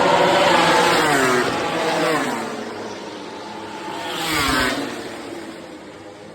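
MotoGP racing motorcycles passing at speed. The first bike is loud at the start and its engine pitch falls as it goes by, about a second and a half to two and a half seconds in. A second bike passes about four and a half seconds in, with a rising then falling pitch, and the sound fades away.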